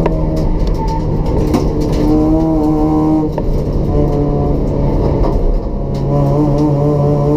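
Race-built Toyota Etios's 1.5-litre petrol engine with a free-flow exhaust, running hard under racing load. The engine note holds steady, dips briefly about three seconds in and again near six seconds, then picks up, with a few short clicks along the way.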